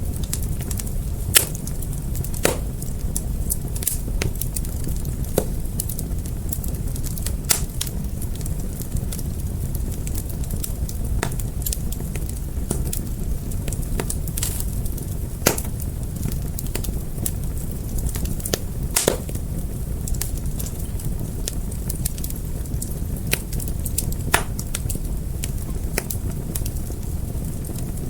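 Wood fire burning: a steady low rumble with frequent irregular crackles and pops, and a louder sharp snap every few seconds.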